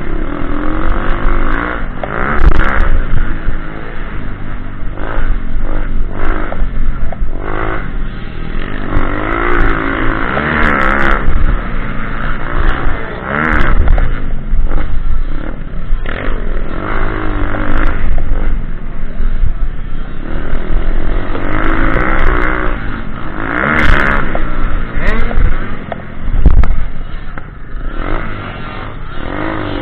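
Pit bike engine revving up and falling back over and over as it is ridden around an off-road track, its pitch rising and dropping every few seconds, with occasional clattering knocks.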